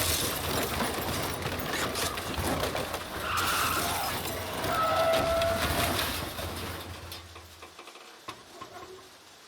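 Car crash: a collision with glass shattering and metal crunching and scraping as the car rolls over. It dies away over the last two seconds.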